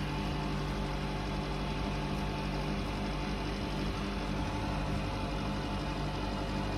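Commercial beer fridge's refrigeration compressor and condenser fan running, a steady hum with several fixed tones over a hiss of moving air.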